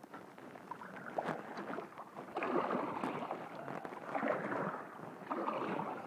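Kayak paddle strokes swishing through lake water, a stroke about every second and a half, three in a row after a few faint clicks.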